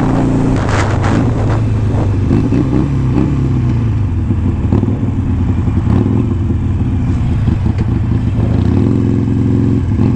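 Harley-Davidson Iron 883 Sportster's air-cooled V-twin engine running steadily while riding. Its note shifts about half a second in and again near the end.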